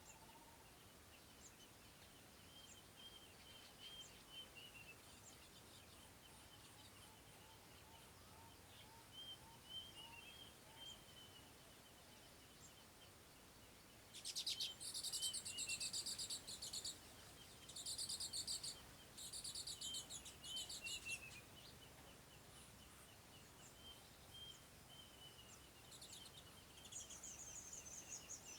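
Birds calling: short chirping notes repeat throughout. About halfway through, a louder, high, buzzy rapid trill comes in three bursts over some seven seconds.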